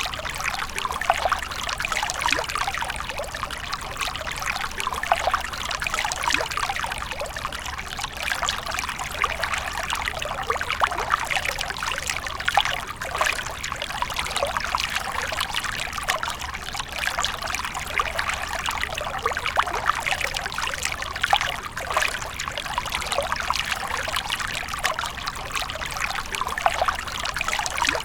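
Water falling and splashing in a fountain, a steady trickling and pouring with many small droplet splashes.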